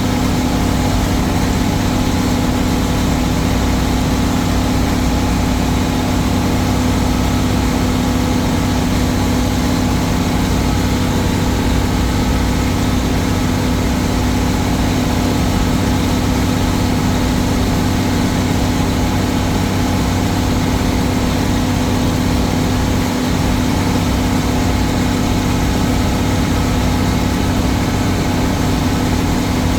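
Old Case tractor's engine running at a steady speed, its pitch and loudness unchanging throughout.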